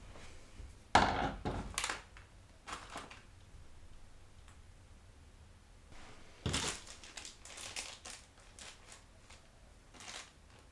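Computer parts being handled and knocked during an M.2 SSD install: a sharp knock about a second in, a few short clatters, then another run of knocks and clicks from about six and a half seconds.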